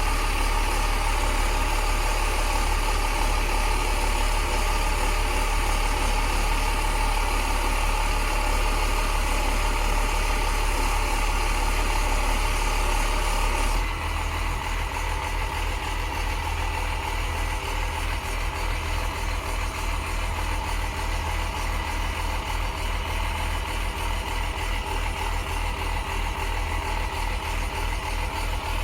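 Crane truck's Cummins diesel engine running steadily, with steady higher tones over the engine note. About halfway through the sound changes abruptly to a slightly quieter, lower-pitched run.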